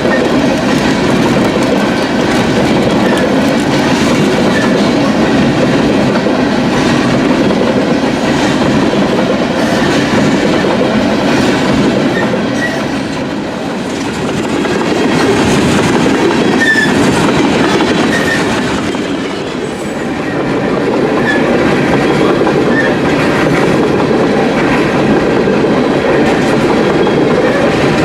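Empty coal train's cars rolling past, a steady rumble and clatter of wheels over the rail joints with a few faint wheel squeals. The sound eases briefly twice, a little before halfway and again about two-thirds through.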